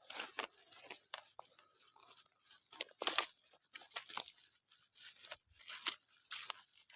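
Footsteps crunching and rustling through dry leaves and undergrowth, an irregular string of crackles with the loudest about three seconds in.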